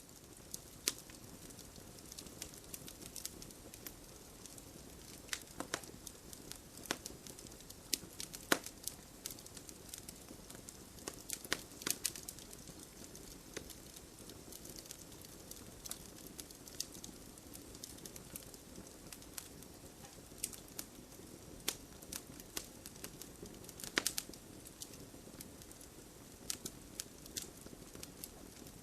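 Campfire crackling: a steady low rush of burning with frequent irregular sharp pops and snaps, a few of them louder than the rest.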